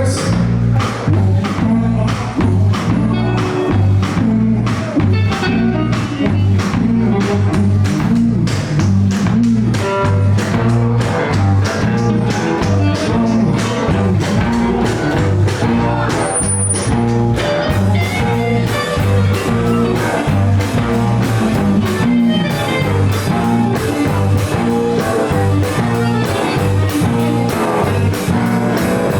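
Live rock band playing a blues-rock song, with guitar and a steady drum beat over a bass line.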